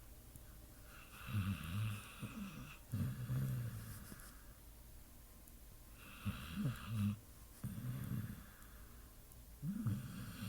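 A pit bull snoring in its sleep: low snores in three rounds, each a pair of drawn-out breaths, with quiet pauses between the rounds.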